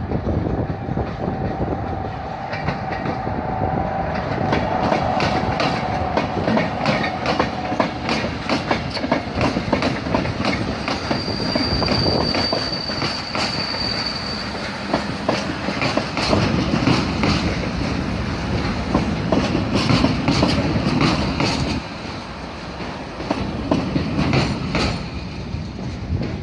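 A train passing close by, its wheels clattering rapidly over rail joints. A thin, high wheel squeal is held for about three seconds midway.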